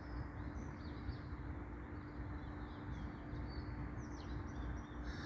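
Small birds chirping repeatedly in quick, high notes over a steady background rumble with a faint low hum.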